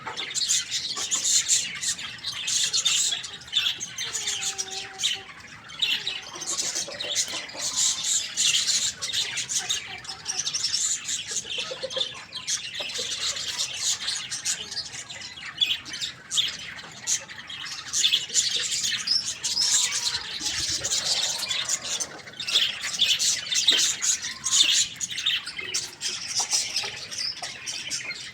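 Many small birds chirping and squawking at once in a dense, unbroken chatter, with a few lower, sliding calls mixed in.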